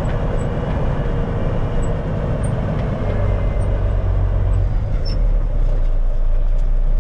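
1974 Kenworth log truck's diesel engine running at low speed as the truck is manoeuvred slowly. About three seconds in, the engine note drops lower and gets heavier, and it grows slightly louder toward the end.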